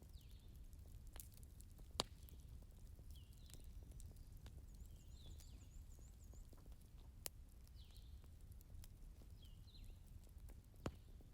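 Wood fire crackling quietly over a faint low rumble, with a few sharp pops; the loudest comes about two seconds in. Faint high chirps recur in the background.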